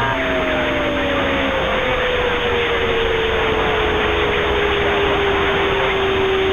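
CB radio receiver hiss with a carrier whistle sliding slowly down in pitch over about six seconds, then cutting off: the sound of a keyed-up transmission heterodyning on the channel.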